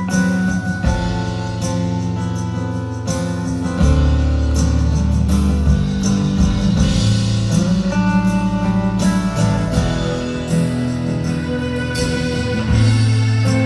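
Rock band playing live in an arena, guitars to the fore, recorded from the audience on a phone.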